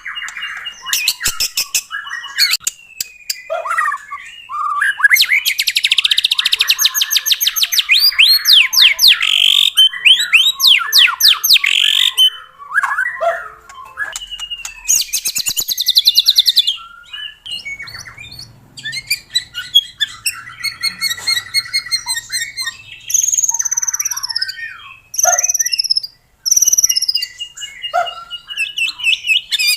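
White-rumped shama singing a long, varied song. It runs through rapid trills, harsh chattering rattles and clear whistles, with a series of falling whistled notes near the end.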